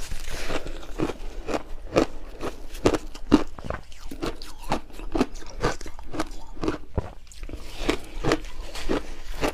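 A chunk of refrozen shaved ice being bitten and chewed close to the microphone: a steady run of crisp crunches, about two or three a second.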